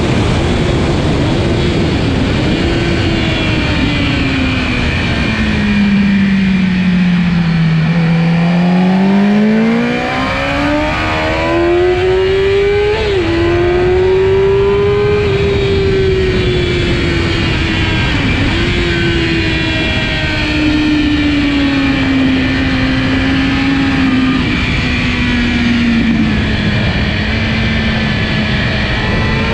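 Kawasaki ZX-10R's inline-four engine running hard. Its pitch sinks to a low point about a quarter of the way through, climbs steeply, then eases down slowly over the second half before rising again at the end, with quick blips from gear changes near the middle. Heavy wind noise runs underneath.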